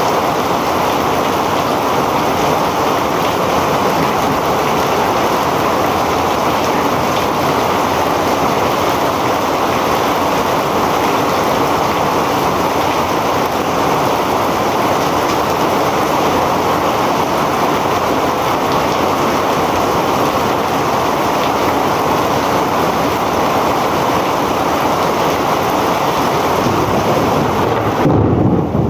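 Heavy rain pouring down in a steady, dense hiss. Near the end a gust of wind buffets the microphone with a low rumble.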